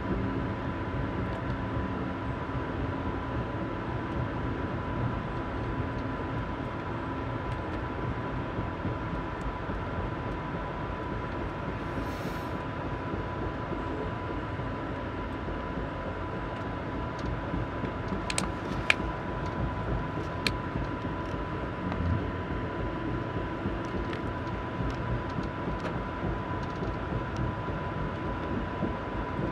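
Amtrak Sunset Limited passenger train rolling along the track, heard from inside the car as a steady rumble with a thin high hum running through it. A few sharp clicks come about two-thirds of the way in.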